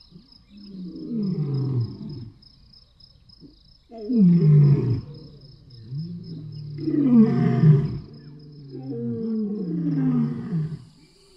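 Lion roaring: four long, deep calls, each sliding down in pitch, the third the loudest and longest. A faint, rapid high-pitched pulsing runs underneath.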